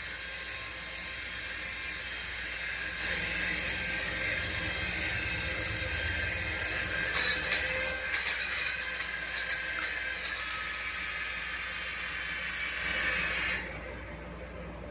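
A remote-control toy's small electric motor running with a steady high-pitched whine and hiss. It grows louder about three seconds in and cuts off sharply near the end.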